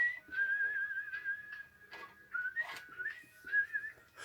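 A person whistling a wavering tune to themselves, with a few light knocks and clicks of work going on.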